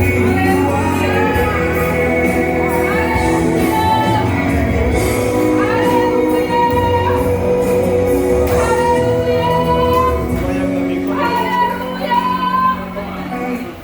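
Church worship music: voices singing over sustained instrumental chords. Near the end it drops in level briefly.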